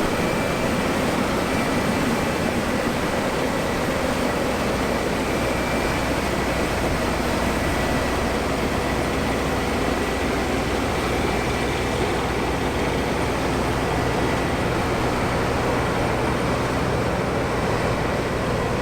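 New Holland CX8.70 combine harvester running steadily while cutting wheat, an even mechanical drone with a constant low hum.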